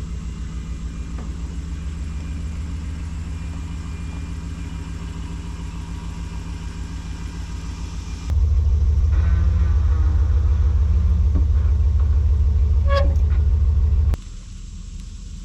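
An engine running steadily with a low, even drone. It jumps louder about eight seconds in and drops back abruptly about two seconds before the end.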